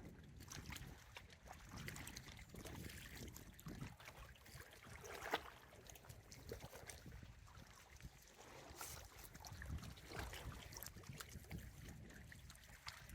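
Faint wind rumble with scattered light ticks of rain, and one sharper click about five seconds in.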